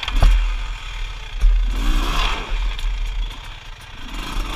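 Enduro dirt bike engine revving in rising-and-falling bursts as it climbs a rocky trail, once about two seconds in and again near the end, over a constant low rumble. A sharp knock sounds just after the start.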